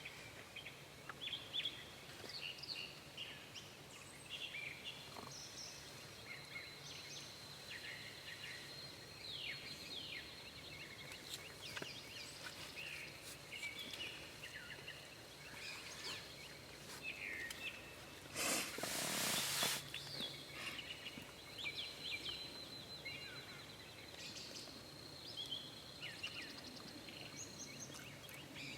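Faint woodland birdsong: many small songbirds chirping and trilling, with a thin, steady high note held through much of it. About eighteen seconds in, a brief burst of rustling noise.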